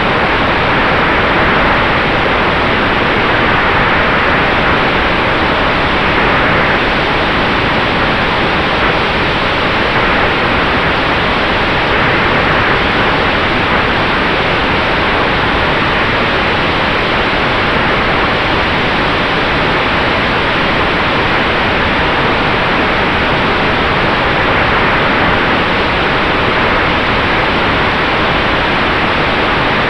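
Steady rush of airflow and propeller noise from an electric Sonex Xenos airplane, unchanging throughout, with a faint steady tone underneath.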